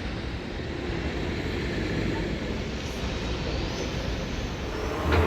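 Steady low rumble of a vehicle in motion, with a short knock just before the end.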